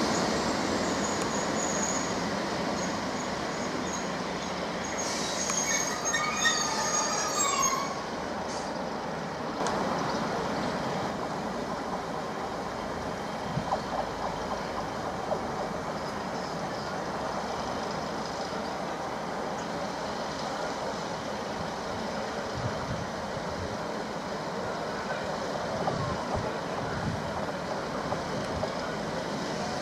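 Class 153 diesel multiple unit running into the platform and braking to a stop, its brakes squealing in high tones for a few seconds about five seconds in, one tone falling as it halts. Then a steady hum as the unit stands at the platform with its diesel engine idling.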